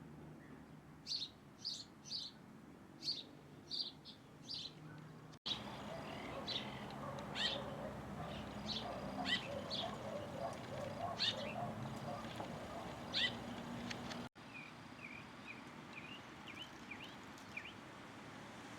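Wild birds calling with short, sharp notes repeated about every half second. Two abrupt cuts change the scene: the middle part has louder calls that sweep downward over a busy chatter of lower notes, and the last part has a quick run of short chirps.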